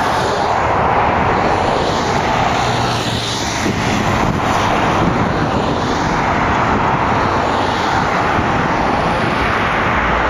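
A Boeing 777-200ER's GE90 jet engines at takeoff thrust: a loud, steady jet rush whose hiss shifts slowly as the airliner passes.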